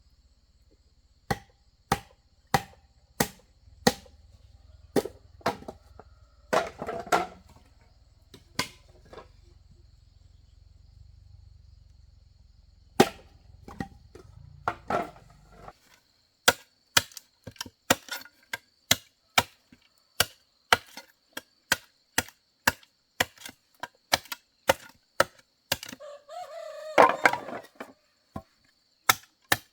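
A tool striking wood again and again, sharp blows about one and a half a second, with a pause of a few seconds in the middle before a long steady run.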